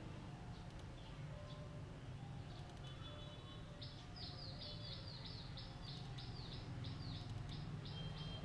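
A bird chirping in a rapid run of short, high notes, starting about four seconds in, over a steady low hum.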